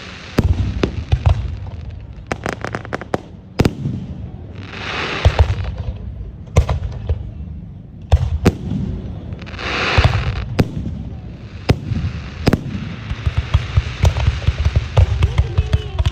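Aerial fireworks going off: a steady string of sharp bangs and pops, some in quick clusters, with two swells of dense noise about five and ten seconds in.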